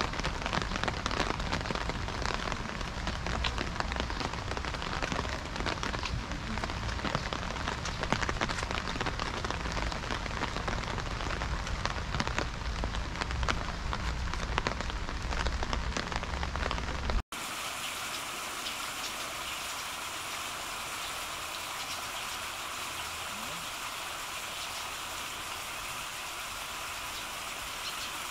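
Rain falling, with many separate drops hitting close by. About 17 seconds in it cuts abruptly to a smoother, steadier rain hiss.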